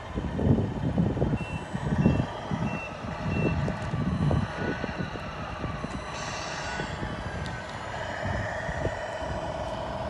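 Four short, high reversing beeps from the sound unit of a 1/14 Tamiya Scania R620 RC truck, over low rumbling bursts. A short hiss follows about six seconds in, then a steady hum.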